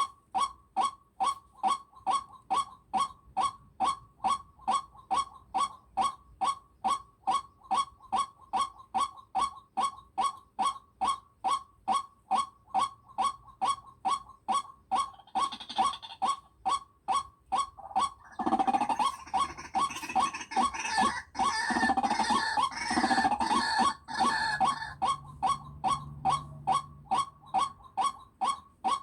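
A single bird-like call note repeated very evenly, about two to three times a second, without a break. About two-thirds of the way through, a louder, busier mix of sound comes in over it for several seconds.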